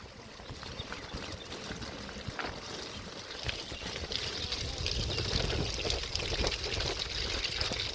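Bicycle riding over a wet, muddy track: a steady wash of tyre and splashing noise with small scattered clicks, growing louder about halfway through.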